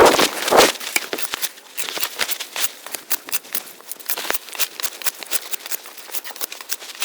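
Dense crackling and snapping, many small sharp clicks in quick succession, louder in the first second.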